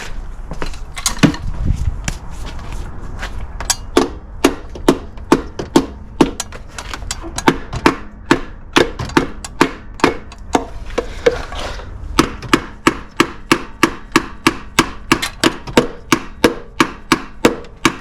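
Repeated hammer strikes on the old starter to knock it loose. A few irregular knocks and scraping come first, then steady blows about two a second that quicken to about three a second.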